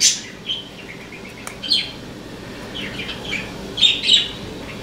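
Small birds chirping: a string of short, high, falling chirps with gaps between them, the loudest pair near the end.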